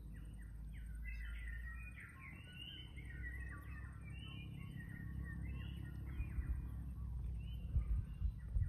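Small songbirds chirping and warbling in a quick jumble of short calls, busiest in the first half and thinning out later, over a steady low rumble. A few dull low thumps come near the end.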